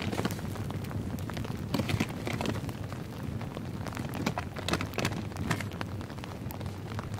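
Rain falling steadily on a tarp shelter, with a small wood campfire crackling in irregular sharp pops.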